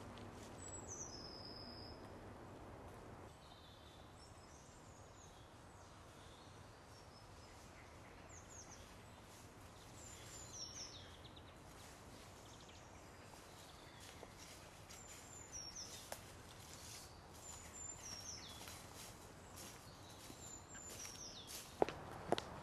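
Quiet woodland ambience: a faint steady hiss with short, high, falling bird chirps every few seconds. Near the end, footsteps begin on the leaf litter.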